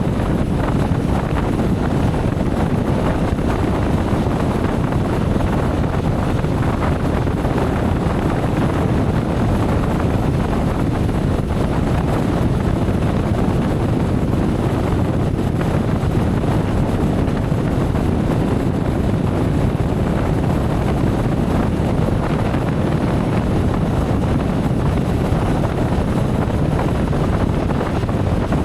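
Steady rush of wind on the microphone over motorcycle engine and road noise while riding.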